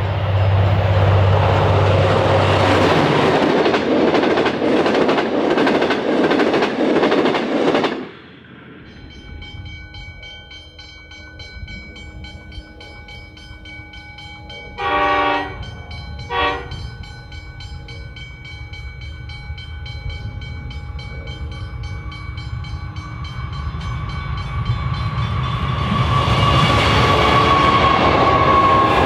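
A V/Line N class diesel locomotive hauling a passenger train passes at speed, loud engine and wheel noise that ends abruptly about eight seconds in. Then a distant freight train sounds its horn twice, a longer blast and a short one about halfway through, and the rumble of its NR and AN class diesel locomotives builds steadily as the steel coil freight approaches and passes.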